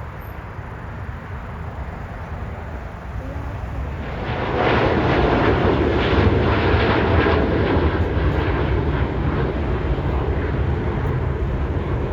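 Jet airliner engines passing nearby: a low rumble that swells sharply about four seconds in and stays loud.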